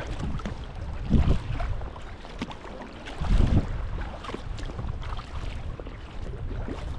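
Sea kayak paddle strokes in the water, with two louder splashes about a second and three and a half seconds in, over wind buffeting the microphone.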